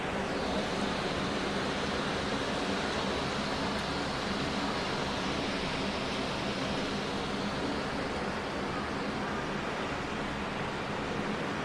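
Steady rushing noise of a severe thunderstorm's wind and rain, even and unbroken.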